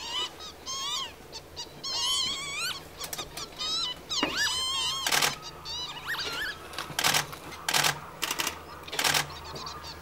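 Several wild birds calling: short whistled notes that rise and fall, a rapid warbling trill around the middle, and a handful of short harsh calls in the second half.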